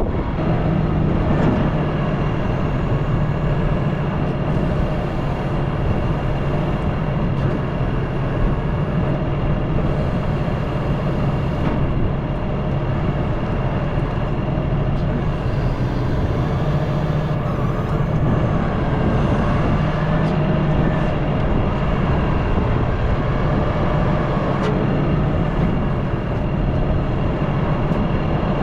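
Excavator's diesel engine running steadily under work, carrying a Mecanil grapple saw, with a faint wavering hydraulic whine over the engine note.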